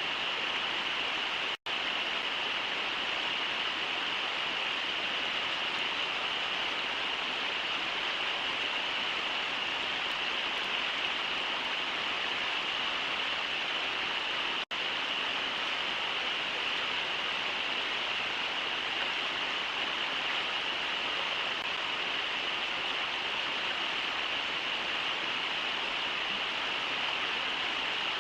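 Steady rushing of the Brooks River's riffles, a hiss-like sound strongest in the upper middle. The sound cuts out for a split second twice, once near the start and once about halfway through.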